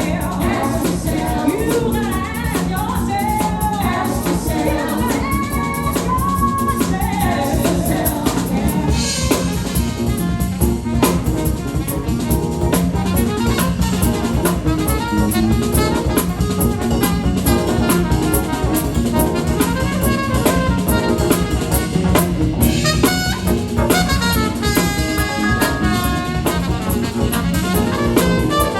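A live band playing an upbeat number, with drum kit, brass and a sung or played melody.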